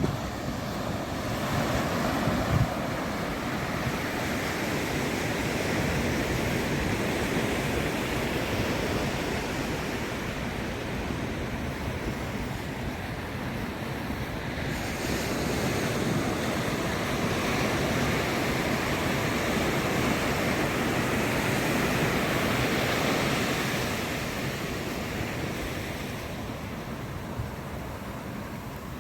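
Ocean waves breaking and washing up on a sandy beach, a continuous surf hiss that swells and ebbs slowly, with some wind on the microphone.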